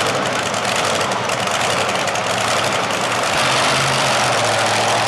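Modified pulling tractor engine idling loudly and steadily, with a low steady engine note coming in about three seconds in.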